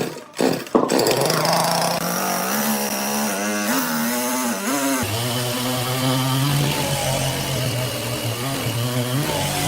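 A saw's engine starts up about a second in and runs on steadily. Its pitch wavers, then drops to a lower, steady note about halfway through as the saw works.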